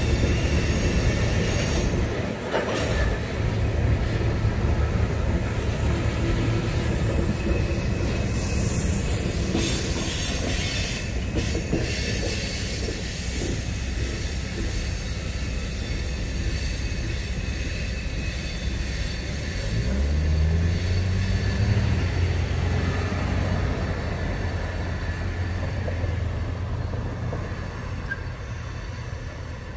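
Freight train's last tank cars and covered hoppers rolling through a grade crossing, wheels clattering and squealing on the rails, then rumbling away. A crossing's electronic bell rings until the gates go up, and the sound drops off near the end.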